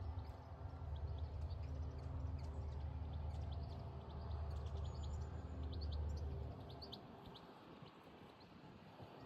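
Small birds chirping in short scattered calls over a steady low rumble, which fades out about seven seconds in.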